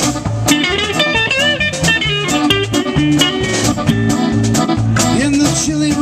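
Live band playing a blues-flavoured instrumental break: a walking bass line and steady drums under a melodic lead line with bent notes, which fades out of the lead about three and a half seconds in.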